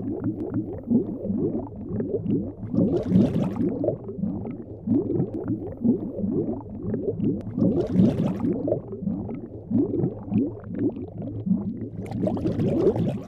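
Bubbling, gurgling liquid sound effect: a dense run of short, low, rising blips, with a soft airy hiss swelling up briefly three times.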